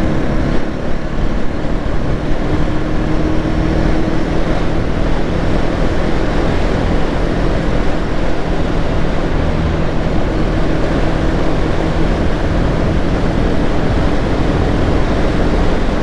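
Motorcycle engine running steadily at cruising speed, under heavy wind rush on the microphone.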